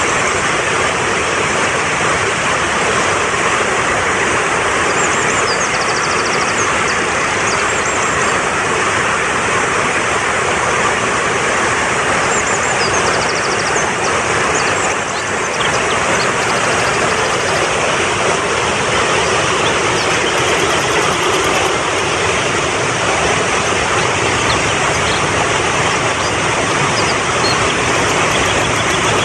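Mountain stream rushing steadily, with short bird chirps now and then over the water.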